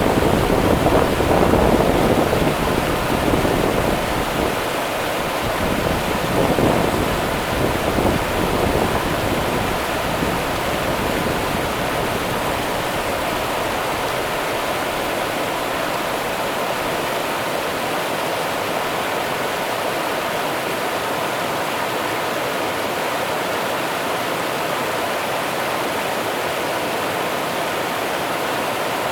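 Rio Grande river water running in a steady, even rush. It is a little louder, with extra low rumble, for the first eight seconds or so, then stays constant.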